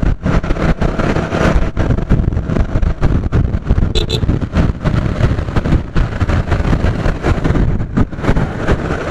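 Heavy wind buffeting on the microphone over road and traffic noise while riding a motorcycle, with two short high beeps about four seconds in.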